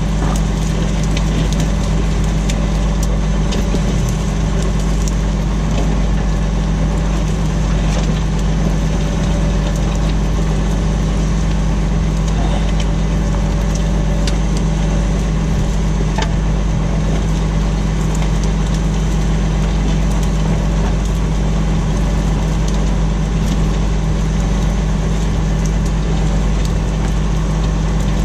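Tractor engine running steadily while pulling a plough, a constant low drone with a few scattered light clicks and rattles.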